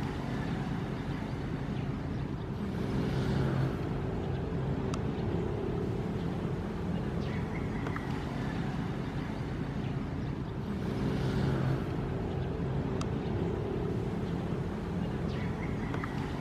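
Ocean waves washing in over a steady low rumble, swelling twice about eight seconds apart.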